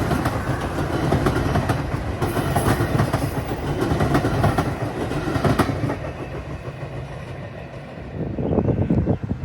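Train rolling past on the track, its wheels clicking and clattering over rail joints, easing off after about six seconds before a brief swell near the end.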